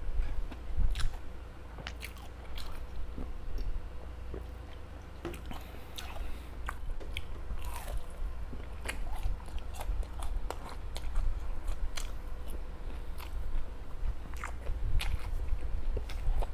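Close-miked chewing and biting of homemade fish balls, with many irregular small wet mouth clicks and soft crunches over a steady low rumble.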